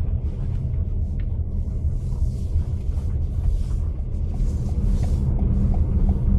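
Steady low road rumble of a car driving, heard from inside. About two-thirds of the way through, a faint regular ticking, about three ticks a second, joins it.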